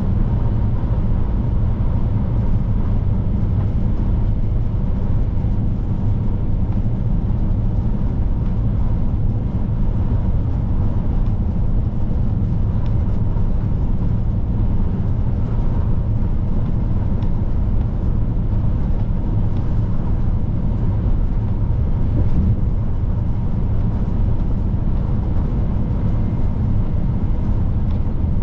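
Scania P310 truck's diesel engine and tyre noise, a steady low drone while cruising with no gear changes or other events.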